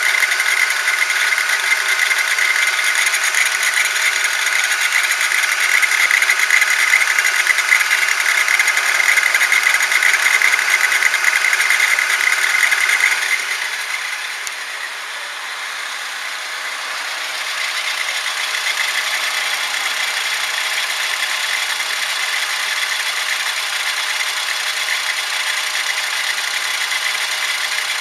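Abnormal noise from the steering of a 2008 eighth-generation Honda Civic, heard with the car running: a steady, high-pitched mechanical noise that gets quieter about halfway through and then holds steady.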